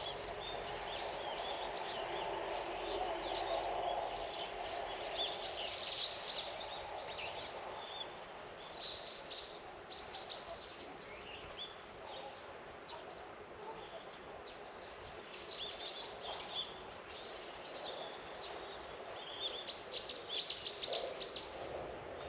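Songbirds calling in short bursts of quick, high repeated notes, the busiest flurries about a third of the way in and near the end, over a steady background hiss.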